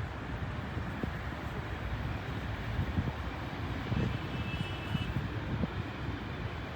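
Low, steady rumble of a jet airliner's engines.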